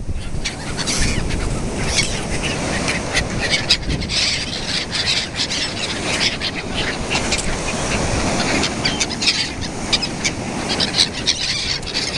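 A large flock of gulls calling constantly as they fight over bread thrown onto the waterline, many short, harsh cries overlapping.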